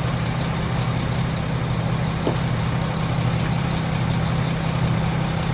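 Heavy diesel engine idling steadily with a constant low hum.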